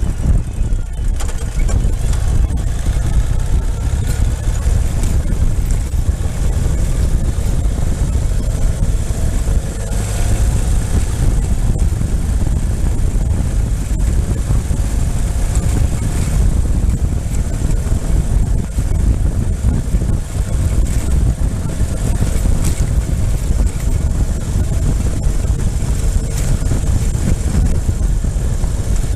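Motorcycle engine running under way, with a heavy, steady wind rumble on the microphone. The engine note rises slightly a few seconds in.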